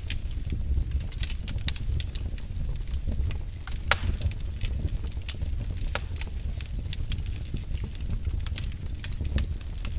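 Wood fire burning in a fireplace: a steady low rumble of the flames with irregular sharp crackles and pops, the loudest pop about four seconds in.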